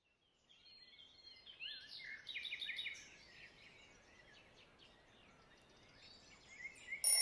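Birds singing: short chirps and trills, loudest about two to three seconds in, then fainter. Right at the end a sudden loud hissing sound cuts in.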